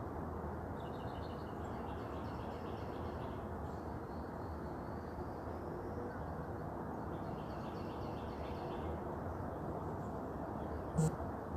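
Small birds calling in high, quick repeated notes, in two spells, over a steady low background rumble, with one brief sharp click near the end.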